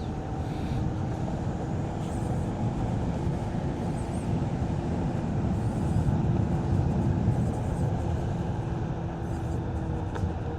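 Onewheel electric board's hub motor whining at a steady pitch while riding, over a low rumble of tyre and wind noise.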